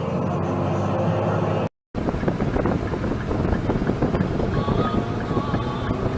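Music that cuts off abruptly under two seconds in, then after a brief gap a steady rumble of vehicle and wind noise buffeting the microphone.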